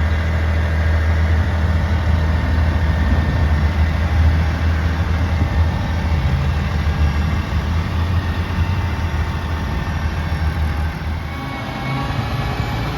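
Kenworth T480's Cummins diesel engine running steadily with a deep low hum. About eleven seconds in, a whine starts to rise in pitch over it.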